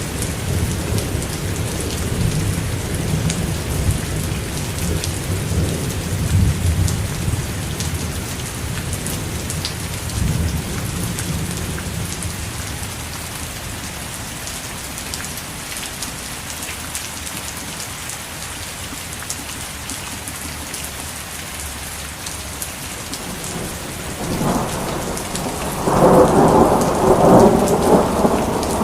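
Steady rain falling, pattering on a surface. A low thunder rumble fades away over the first dozen seconds, and a louder roll of thunder builds about three-quarters of the way through.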